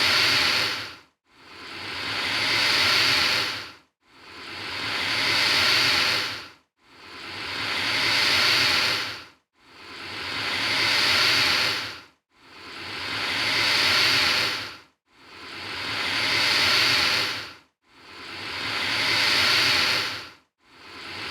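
Alligator hissing, one hiss about every three seconds, each swelling in loudness and then cutting off sharply, over and over in the same shape.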